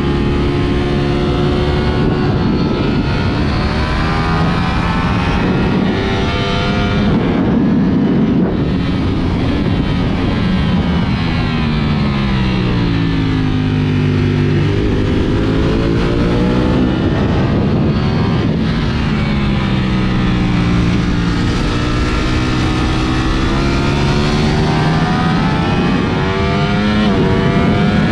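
Ducati Panigale V4 SP2's V4 engine at speed on track, its note climbing and falling again and again as the bike accelerates and slows. A long slow fall and climb comes near the middle, and short breaks in the pitch mark gear changes.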